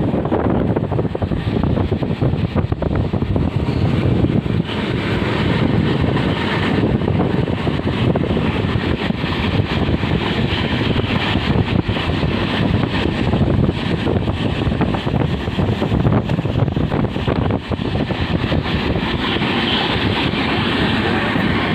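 Train running with a steady, loud rumble and rush, with wind buffeting the microphone.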